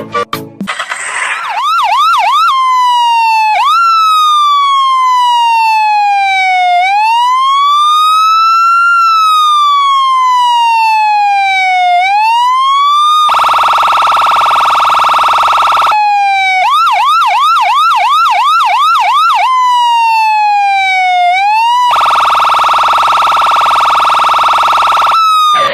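Electronic emergency-vehicle siren cycling through its tones. A slow wail rises and falls, with quick yelping sweeps near the start and again in the middle. Twice it gives a long, harsh, steady horn blast.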